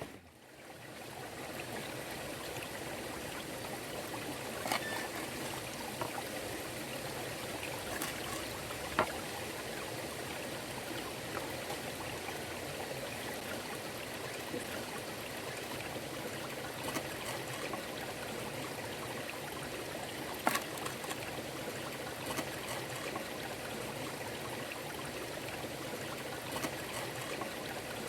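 Steady sound of running water, with a few sharp clicks here and there.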